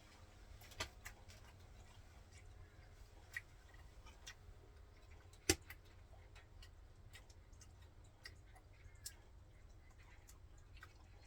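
Sparse light clicks and taps of eating utensils against dishes during a meal, with one sharper knock about five and a half seconds in.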